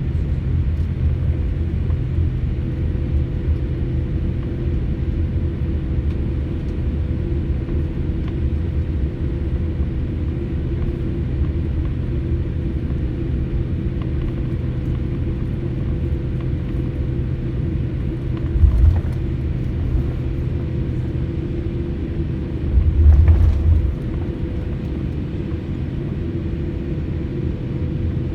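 Steady low rumble and hum inside an airliner cabin, engines running on the ground before takeoff. Two brief low thumps come through, one a little past the middle and a longer one near the end.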